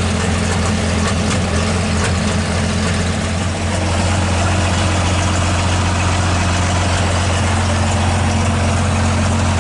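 12-valve Cummins diesel in a pulling truck idling steadily with its exhaust unhooked underneath, so it runs without the exhaust system attached.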